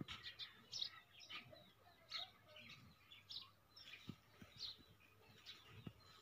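Faint bird chirps, short high calls coming every half second or so, with a few soft low knocks near the end.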